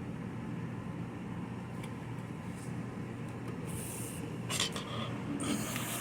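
Dishwasher leveling leg being adjusted by hand, giving a few short scrapes in the second half over a steady low hum.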